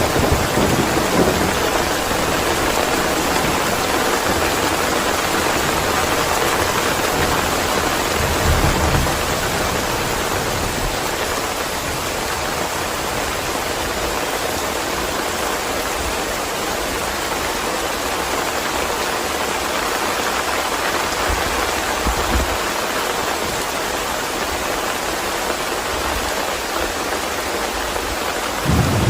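Steady rain, with low rumbles of thunder now and then; a stronger roll of thunder builds just before the end.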